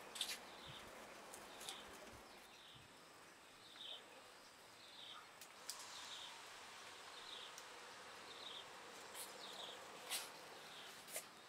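Faint outdoor background with a bird's short, high chirp repeated roughly once a second, and a few light clicks.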